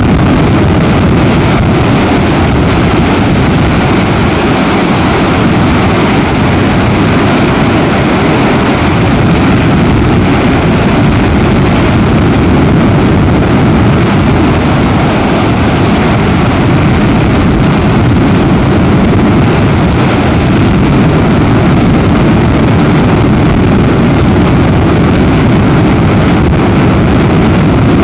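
Very strong storm wind blowing across the nest camera's microphone: a loud, steady, low rumble of wind noise that never lets up.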